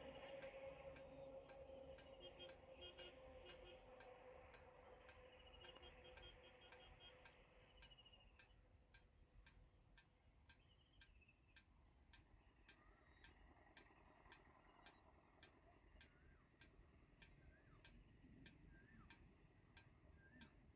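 Near silence with a faint, even ticking, about two clicks a second. A faint steady hum and some high chirps fade out partway through.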